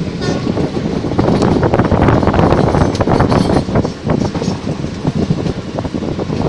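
Passenger train coaches running along the track, heard from an open coach doorway: a steady rumble of wheels on rail with continual rattling and clatter.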